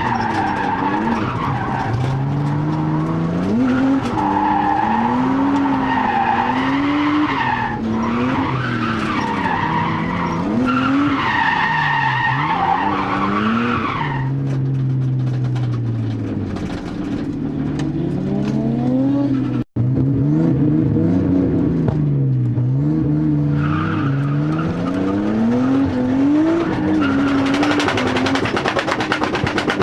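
R32 Skyline's turbocharged RB20DET straight-six, on its stock turbo with the boost raised, revving up and down over and over through drifts, with long stretches of tyre squeal. The engine is one the owner lists as having single-digit compression. The sound cuts out for an instant about twenty seconds in.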